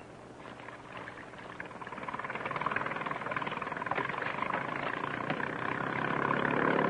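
Motorboat engine running, growing steadily louder over a few seconds, with a few faint knocks.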